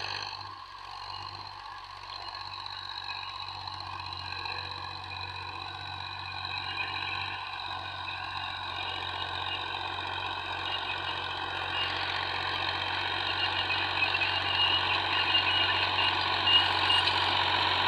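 John Deere tractor engine running steadily, growing gradually louder, with a high fluttering rattle strongest over the last few seconds.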